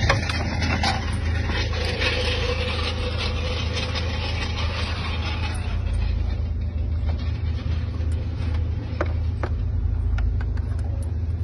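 A vehicle engine idling steadily with a low, even hum, and a few sharp clicks near the end.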